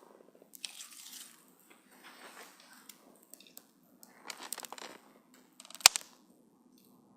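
Wood campfire crackling, with irregular snaps and short hisses and one sharp loud pop near the end.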